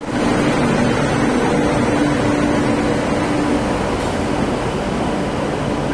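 Indian Railways electric locomotive and its train at a platform, giving a loud, steady machinery hum over a low rumble.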